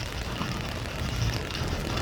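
Steady rain falling, an even patter with a low rumbling undertone.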